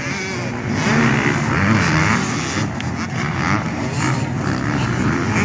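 A pack of motocross dirt bikes racing, several engines revving hard together, their pitch wavering up and down.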